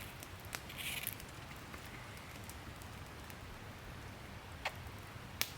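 Wood campfire crackling: a few scattered sharp pops and a brief soft rustle over a low steady rumble.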